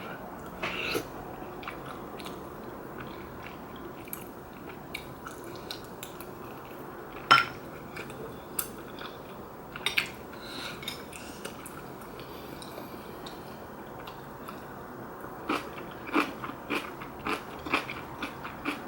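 A person eating rice cake and dumpling soup close to the microphone: wet chewing and mouth sounds with scattered small clicks and taps, sharper once about seven seconds in and again at ten, and a quicker run of them near the end.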